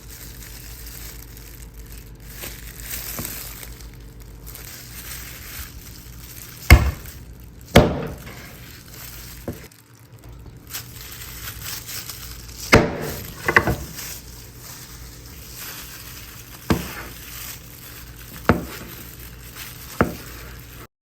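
Kitchen handling sounds: about seven sharp knocks and clinks of chicken pieces, dishes or utensils being moved around, spaced a second or more apart, over a faint steady hum.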